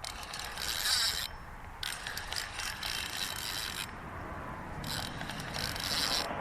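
Fishing reel being cranked to bring in a small hooked trout, its gears whirring in three spells with short pauses between.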